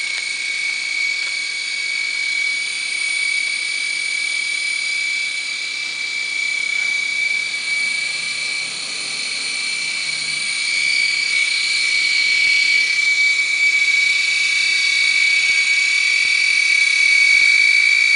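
Micro toy helicopter's small electric motors and rotors running with a steady high-pitched whine that grows a little louder about two-thirds of the way through. The helicopter will not lift, which the owner puts down to a failing motor, not the battery.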